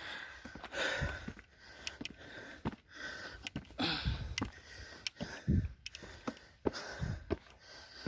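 A person breathing hard close to the microphone after a steep climb: a puff of breath or a sniff every second or two, with a few small clicks between.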